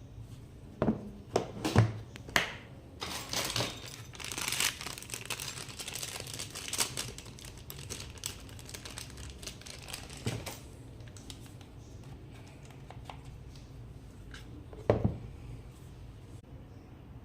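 Packaging being handled: a few sharp knocks, then several seconds of crinkling and rustling, and a single loud knock near the end.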